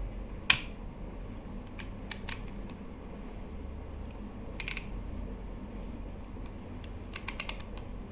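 Scattered sharp clicks and light taps of small hard parts and tools being handled while a hair trimmer is taken apart. The loudest click comes about half a second in, with small clusters around two seconds, near five seconds and near the end, over a low steady hum.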